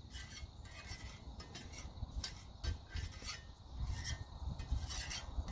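Irregular scraping, rubbing and clicking as cooking gear is handled at a wood-fired barbecue, over a low rumble.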